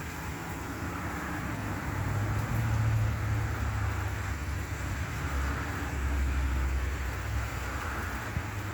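Vehicle engines rumbling low under a steady wet hiss of rain and tyres on a wet road. The rumble swells twice, about three seconds in and again around six to seven seconds, then eases.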